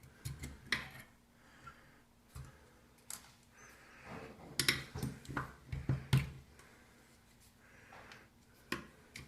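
Scattered light clicks and taps as the old rubber seats and springs are worked out of a single-handle ball faucet's body by hand, with a busier cluster of clicks in the middle.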